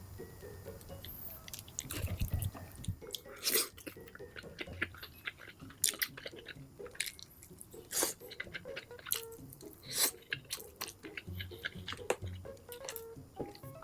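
Close-miked chewing of a burger: wet mouth smacks and sharp clicks at irregular intervals, with soft low thuds of the jaw.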